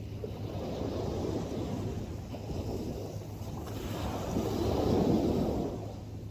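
Ocean surf washing in, with wind buffeting the microphone; the noise swells twice, loudest about five seconds in.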